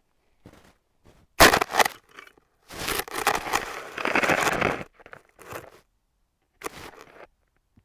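Crunching and rustling of footsteps through dry forest litter and brush, in irregular bursts: a sharp loud crunch about a second and a half in, a longer stretch of rustling crunches in the middle, and a few fainter steps near the end.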